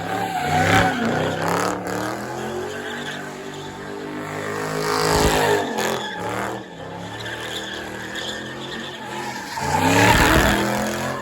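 Car engine revving hard with tyre squeal, surging loudest about a second in, around five seconds in and again near the end.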